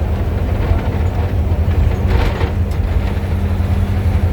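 Diesel engine of a Marcopolo Torino bus on a Volkswagen 17-230 OD chassis running at a steady speed with a constant low hum, with a brief hiss a little over two seconds in.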